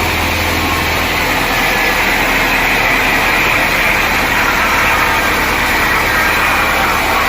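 Sawmill machinery running steadily: a loud, even mechanical noise with a low hum underneath.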